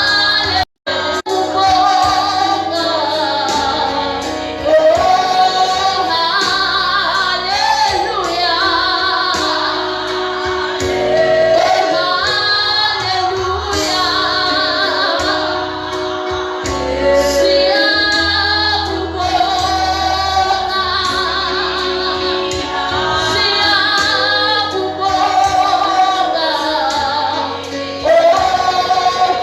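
Gospel singing led by women's voices over music, continuous, with a brief dropout in the audio about a second in.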